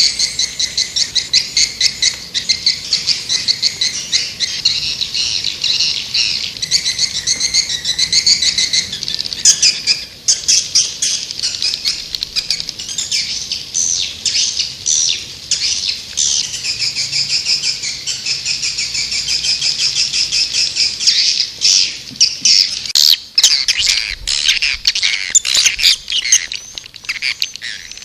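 White-nest swiftlets twittering: a dense, continuous run of rapid high chirps, a swiftlet calling sound used to attract the birds. Sharp clicks break in over the last few seconds.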